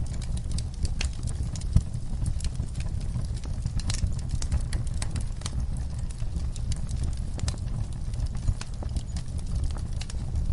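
Campfire crackling: a dense, irregular run of sharp pops and snaps over a steady low rumble.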